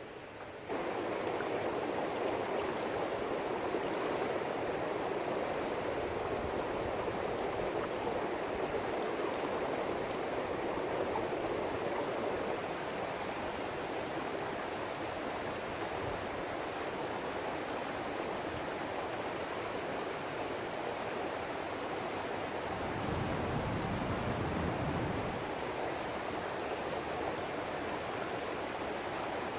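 Steady rushing of a rocky river, getting louder about a second in, with a brief low rumble a few seconds before the end.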